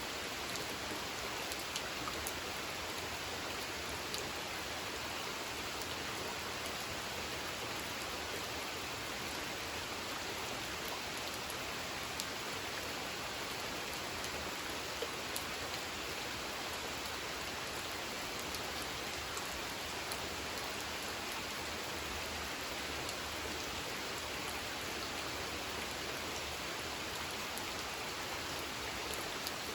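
Steady rain falling on a pond's surface, a constant hiss dotted with many small, distinct drop ticks.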